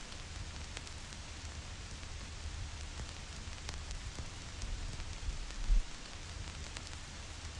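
Vinyl record surface noise: a steady hiss with scattered crackles and pops from the stylus tracking dust and imperfections in the groove, over a low rumble. A low thump stands out about three-quarters of the way through.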